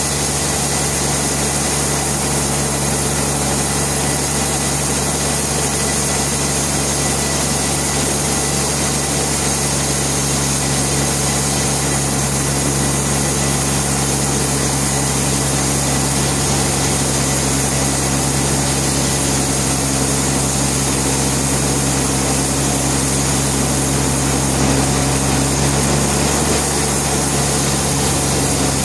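Sawmill machinery running steadily, a continuous engine-like drone with an unchanging pitch.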